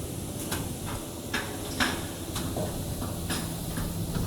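A few light, irregularly spaced clicks and knocks of hands and tools working on the band saw cutting machine, over a steady low machine hum. A low steady tone joins the hum about three seconds in.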